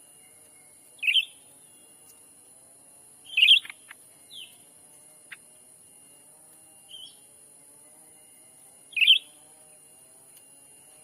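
Cucak ranting giving short, sharp chirping calls. Three loud ones come about a second in, at about three and a half seconds and near nine seconds, with a few fainter calls between them. A steady high hiss runs underneath.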